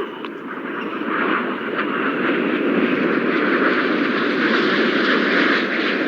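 Jet noise from a formation of Red Arrows BAE Hawk T1 jets with Rolls-Royce Turbomeca Adour turbofans flying their display. It swells over the first couple of seconds, holds, and eases slightly near the end.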